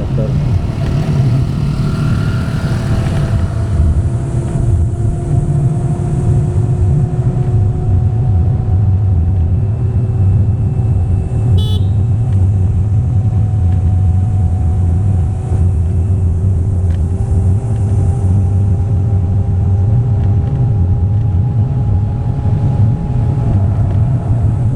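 Motor vehicle travelling along steadily under a heavy low rumble, its engine note rising slowly and evenly. There is one short click about two-thirds of the way through.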